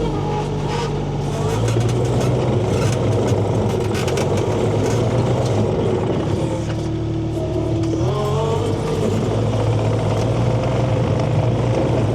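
A motor vehicle's engine running continuously, its pitch easing down about halfway through, holding low, then climbing back up.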